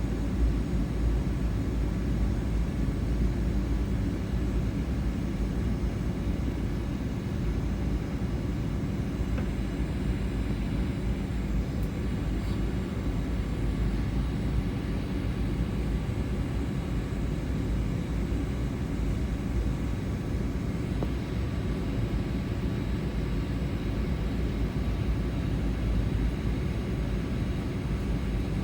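Steady cabin noise of a Boeing 777-200 airliner, the jet engines and rushing air heard from inside the cabin as an even low rumble with faint steady tones above it.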